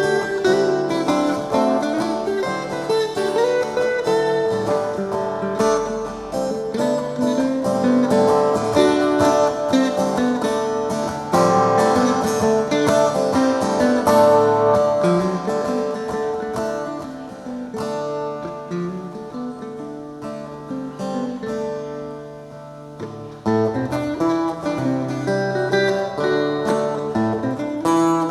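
Guitar playing an instrumental passage of quick single picked notes over strummed chords and low bass notes. It eases off for a few seconds about two-thirds of the way through, then comes back in fuller.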